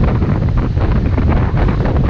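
Wind buffeting the microphone on a moving motorbike: a loud, steady rumble that is heaviest in the low end.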